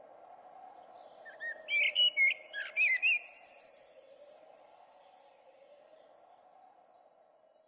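Bird chirps: a quick run of short, gliding whistled calls starting about a second and a half in and ending about four seconds in, over a faint steady hum.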